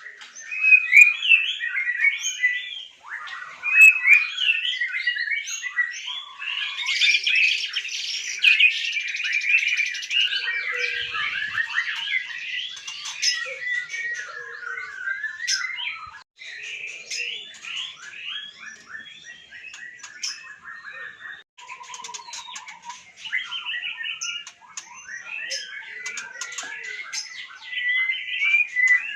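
White-rumped shama (murai batu) singing a long, varied song of whistles, chatters and rapid trills, louder in the first half.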